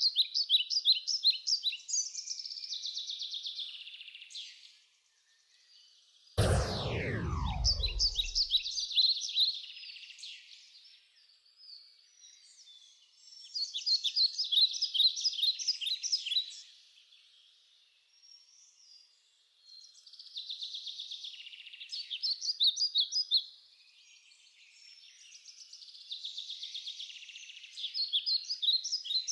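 Songbird singing: repeated phrases of quick, high chirping notes, each a few seconds long, with short pauses between. About six seconds in, a single sudden low thump with a falling tone.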